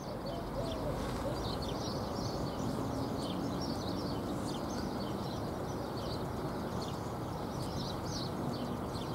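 Small birds chirping and twittering many times over, short high calls one after another, over a steady low background rumble of open countryside.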